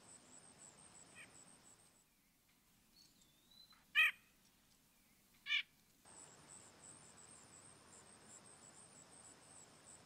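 A bird gives two short calls about a second and a half apart, with a faint gliding whistle just before the first. Faint, steady, high insect chirping runs underneath in the first and last few seconds.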